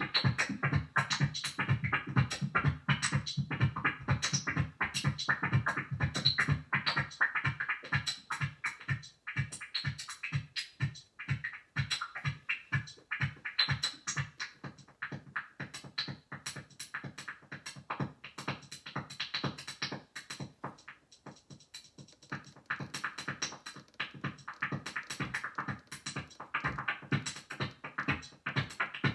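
Dave Smith Instruments Tempest analog drum machine playing an electronic beat of fast, repeated percussive hits over a pulsing bass. The pattern thins out in the middle and fills back in near the end.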